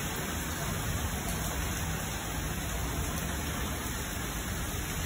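Heavy rain pouring down steadily onto a concrete yard and tiled porch, a constant even hiss of a downpour that a speaker likens to a hurricane.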